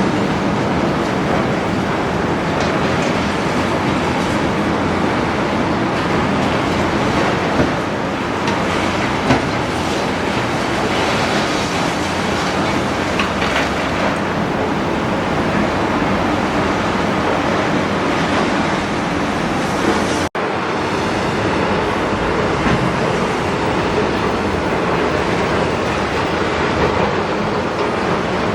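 Large Doosan excavator at work on demolition: a steady, loud mechanical noise with continuous clattering of broken concrete and debris. The sound drops out for an instant about twenty seconds in.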